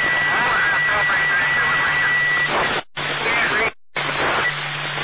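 Scanner radio static with a steady high tone over the first two and a half seconds and a faint garbled voice underneath, over a constant low hum; the audio cuts out briefly twice near the middle.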